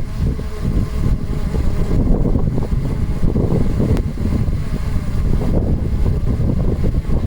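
Strong wind buffeting the microphone: a loud, gusting low rumble that rises and falls without a break.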